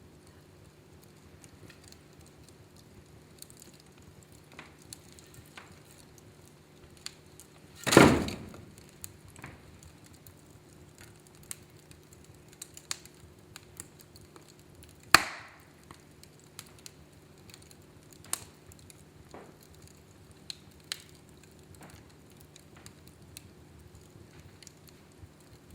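Wood fire burning in a fireplace: scattered small crackles and ticks, with two loud pops from the burning wood, one about eight seconds in and another about fifteen seconds in.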